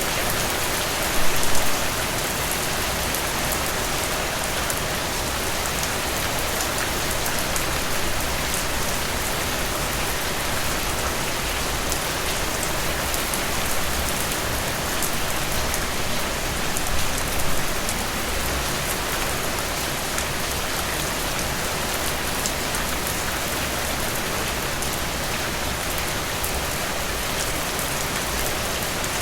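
Steady rain falling through cedar forest, an even dense hiss of drops with a few brief louder swells of dripping.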